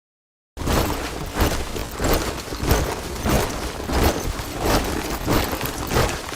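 Troop of soldiers marching in step, boots striking the ground together in a steady rhythm of about one and a half strikes a second. It begins about half a second in, after a moment of dead silence.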